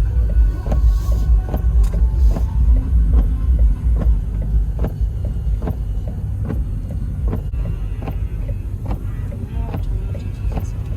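Low, throbbing rumble of a truck driving, heard from inside the cab, with scattered light clicks and knocks.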